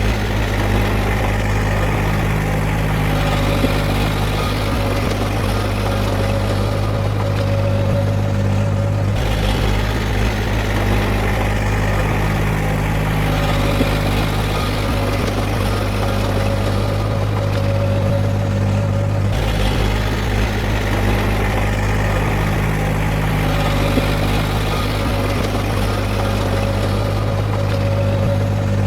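Heavy diesel engine of earthmoving machinery running steadily. The deep drone shifts about every ten seconds as the load changes.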